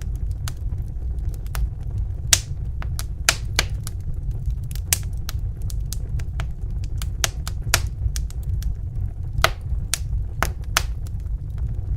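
Wood fire crackling in a fireplace: irregular sharp pops and snaps, some louder than the rest, over a steady low rumble of the flames.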